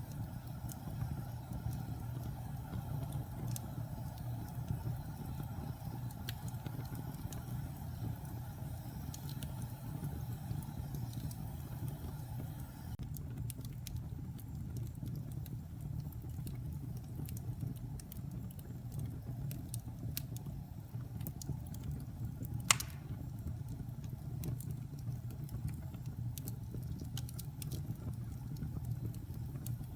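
Wood fire burning in a fireplace: a steady low rumble with scattered small crackles and one sharp pop about three-quarters of the way through.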